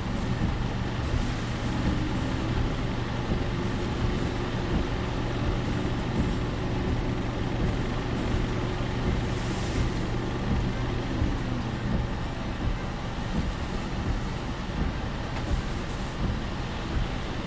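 Driving noise heard from inside a car: steady road and engine noise, with a low droning hum that dips and stops about twelve seconds in.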